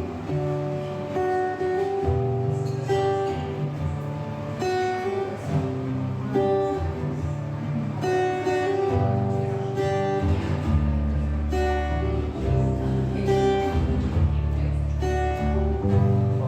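Acoustic band music: guitar playing a song over a sustained bass line.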